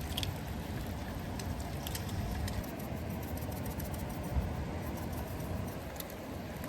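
Breakfast frying in grease: a steady sizzle with many small pops and crackles, over a low rumble.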